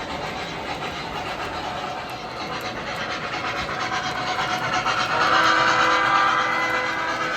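O gauge model trains running on three-rail track, with a steady rolling rumble. About five seconds in, several steady tones sound together over the rumble and hold for about two seconds before stopping near the end.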